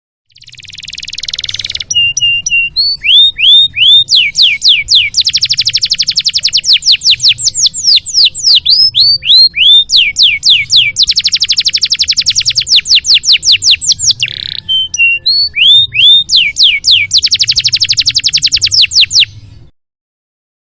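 Canary singing a long, loud song: a harsh buzzy note first, then fast rattling trills alternating with slower runs of downward-sweeping whistles, stopping abruptly about a second before the end.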